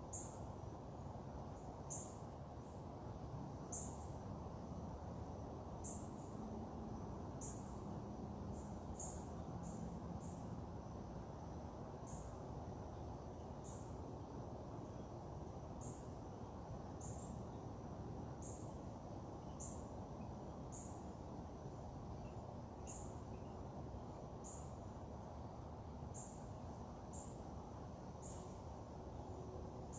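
Outdoor ambience: a steady low background noise with a short, high-pitched chirp repeating roughly once a second.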